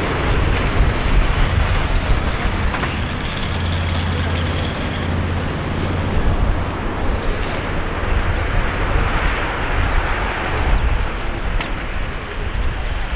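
Boeing 737-800 jet engines running, heard as a steady, loud rumble and rush with a faint high whine.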